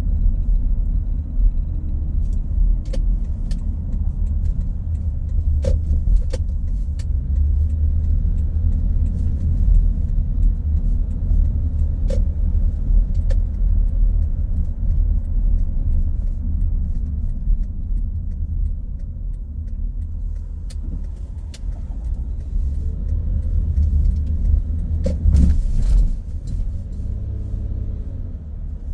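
A car driving on the road: a steady low rumble of engine and tyre noise, with a few faint clicks and a brief louder rush about 25 seconds in.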